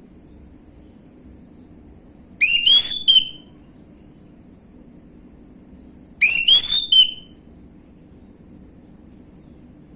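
Orange-headed thrush (anis merah) singing: two short phrases of rising, whistled notes, each under a second and about four seconds apart, over a faint low hum.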